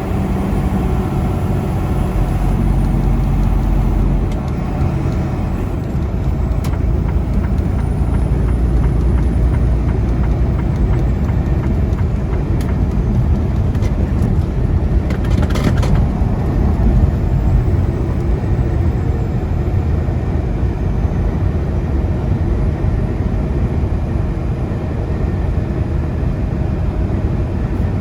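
Freightliner semi truck driving on the interstate, heard from inside the cab: a steady low diesel-engine drone with road noise, and a brief hiss about halfway through.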